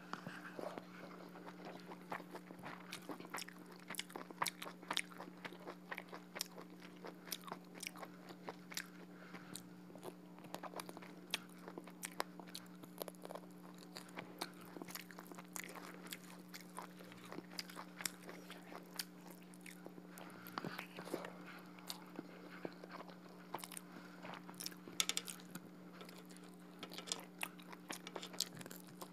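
Close-miked chewing and mouth sounds of someone eating rice and duck curry by hand: a steady run of many small clicks and crunches over a low steady hum.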